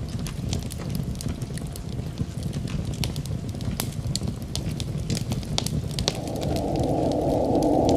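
Wood fire crackling in a fireplace, with irregular sharp pops and snaps over a low rumble. About six seconds in, a louder steady rushing noise comes in and keeps swelling.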